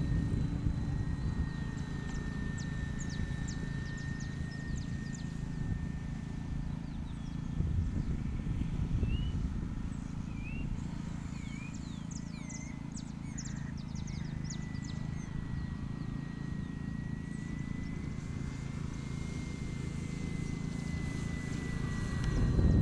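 Wind buffeting the microphone, over the thin steady whine of an electric RC model airplane's motor that drifts slightly in pitch. Birds chirp in short bursts about halfway through.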